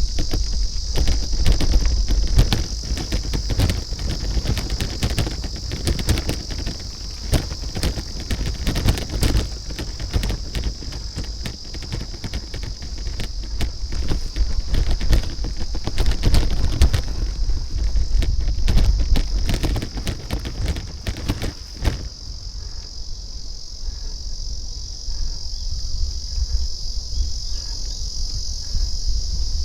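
A steady, high-pitched insect chorus over a low rumble and many sharp clicks and rattles, which stop about three-quarters of the way through while the insect drone carries on.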